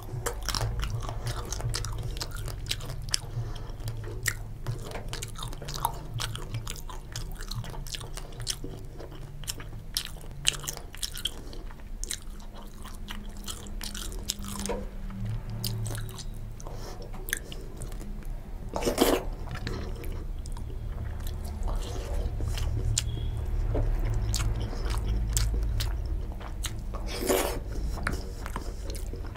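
Close-miked chewing and wet lip smacks of a man eating khichuri by hand, with many small mouth clicks. Two louder sharp sounds stand out, about two-thirds of the way in and near the end.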